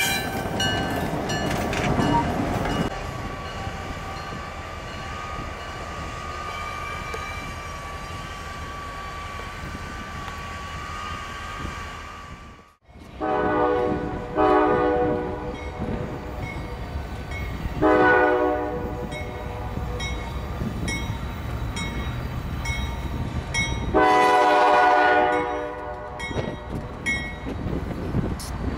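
A Norfolk Southern diesel locomotive rolls past with its steel wheels squealing, a thin held squeal over the rumble of the train. After a cut, an approaching Norfolk Southern freight locomotive sounds its multi-note air horn four times, three blasts of about a second and a final one of about two seconds, over a low diesel rumble.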